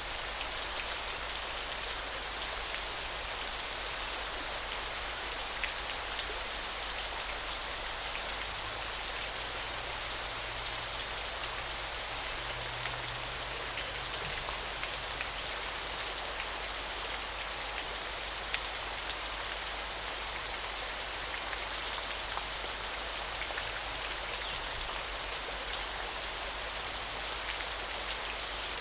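Steady hiss of water, as from a river or heavy rain, with a high, thin insect buzz repeating in bursts of about a second and a half that stops about 24 seconds in.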